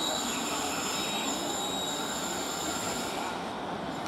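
Electric-hauled passenger train rolling slowly into the platform round a curve, its wheels giving a high, steady squeal over the rumble of the train.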